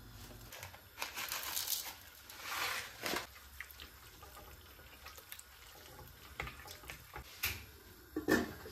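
Two short splashes of water from a tap, followed by scattered small clicks and knocks of things being handled, with one sharper knock near the end.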